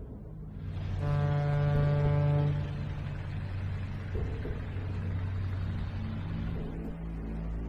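A vehicle horn sounds one long blast of about a second and a half, over the steady low hum of traffic or an engine.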